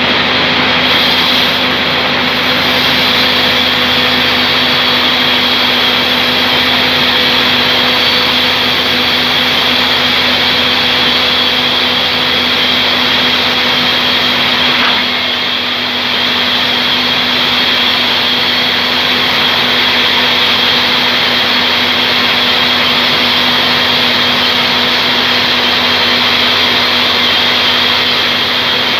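Band sawmill running steadily, a constant mechanical drone with a held high whine, dipping slightly for a moment about halfway.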